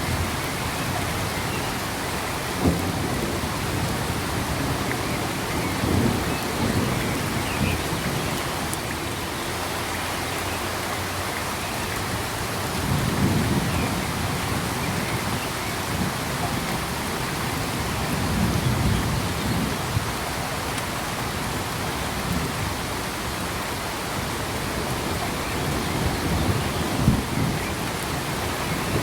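Steady rain falling, an even hiss. Low rumbles swell up about five times, each lasting a second or two.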